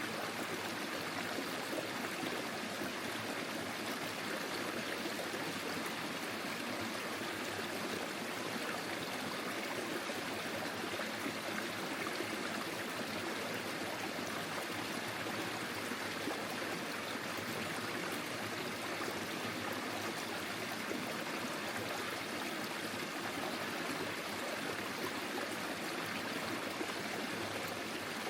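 Forest stream flowing over stones: a steady, even rush and trickle of running water.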